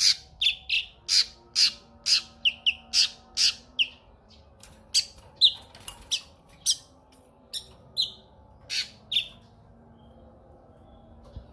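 Cucak kinoi calling a long series of sharp, loud notes, about two a second, which stop about nine seconds in.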